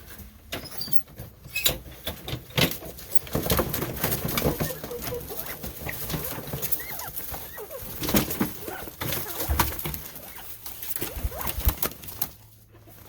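Quail scuffling about in a pen, with irregular scratching, rustles and knocks and a few faint chirps.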